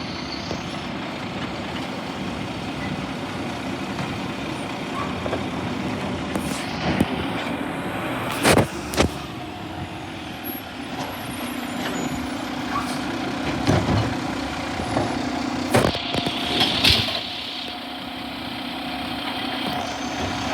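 Garbage truck running close by, with several sharp knocks and a brief air-brake hiss near the end.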